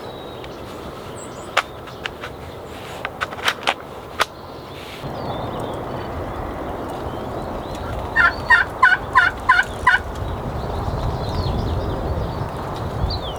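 Wild turkey gobbling: one quick rattling run of about seven notes, about two-thirds of the way through. A few sharp clicks come earlier, and wind noise rises about a third of the way in.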